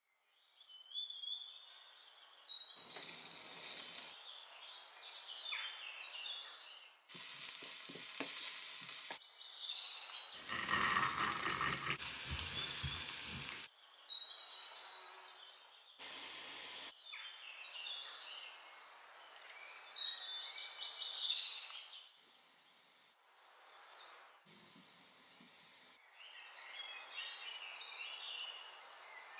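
Food sizzling as it fries in oil in a pan, with stirring, heard as a series of short sections that start and stop abruptly.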